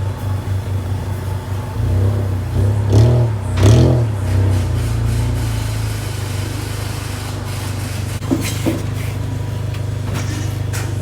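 2005 Honda Accord engine running through a newly fitted Y-pipe and blast-pipe exhaust: a steady low drone that swells with two brief rises in pitch about three and four seconds in, then settles back.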